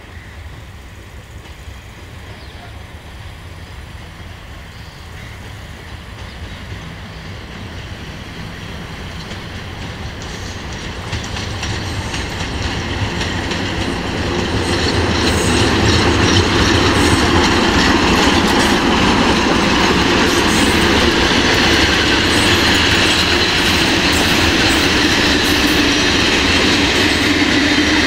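An Electroputere LDE 2100 (CFR class 62) Sulzer diesel-electric locomotive approaches with a passenger train, growing steadily louder for about half the time. The coaches then roll past loud and steady, their wheels clattering over the rail joints.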